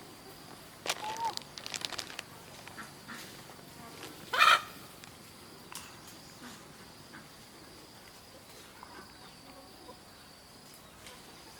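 Short animal calls, one louder call about four and a half seconds in, a run of light clicks near the start, and a faint steady high insect drone.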